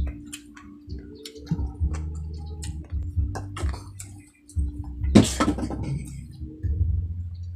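Close-up mukbang eating: wet chewing and lip-smacking of sauced pork ribs and rice eaten by hand, with many short mouth clicks and a louder, longer wet smack about five seconds in. A steady low hum runs underneath.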